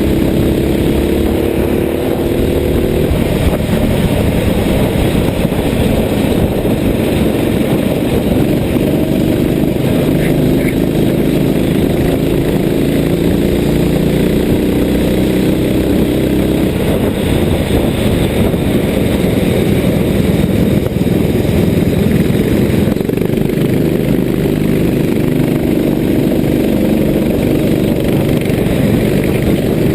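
Small racing-kart engine running under load, its pitch rising and falling again and again as the kart accelerates out of corners and lifts off.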